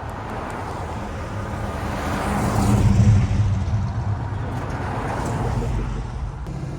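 A car's engine running as it drives past, growing louder to a peak about three seconds in and then easing off.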